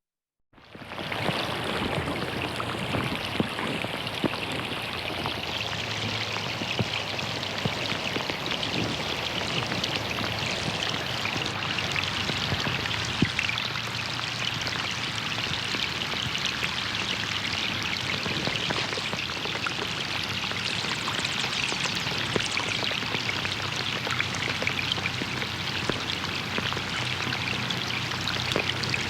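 Steady rain falling on a pond, a dense patter of drops on the water surface. The sound drops out briefly at the very start, then resumes at an even level.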